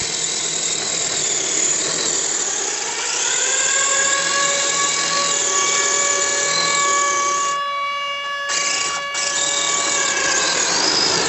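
Electric motor and geared drivetrain of a Kyosho Blizzard RC tracked snow vehicle, converted from gas to electric, whining as it runs. The pitch climbs about two to three seconds in and then holds steady. The whine drops out briefly about eight seconds in.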